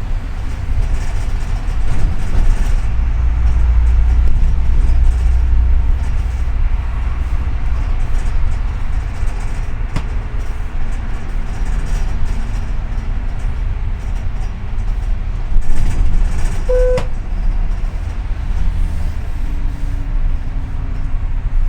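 Double-decker city bus under way, heard from inside: a steady low engine and road rumble. A short beep sounds once about 17 seconds in.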